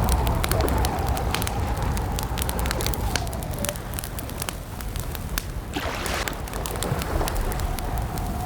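Campfire crackling: a steady scatter of sharp pops and snaps over a low rumble, with a brief louder hiss about six seconds in and a faint wavering whistle underneath.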